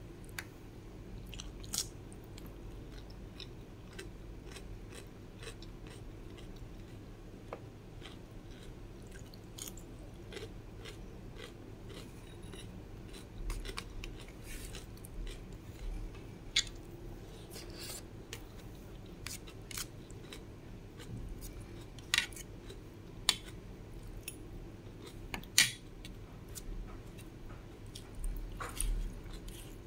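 Close-up crunchy chewing of raw cucumber slices: an irregular run of crisp crackles, with a few louder crunches about two-thirds of the way in.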